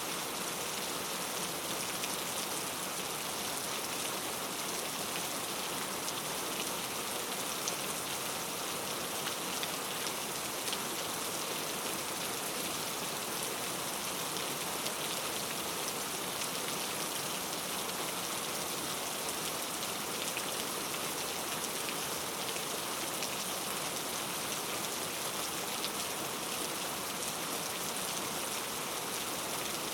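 Steady, even rain falling in a forest, a dense patter of drops with no thunder.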